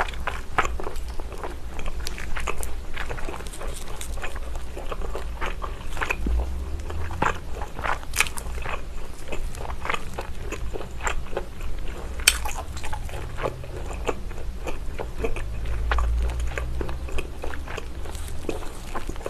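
Close-miked biting and chewing of grilled lamb rib chop meat, a steady run of small irregular mouth clicks and wet chewing noises.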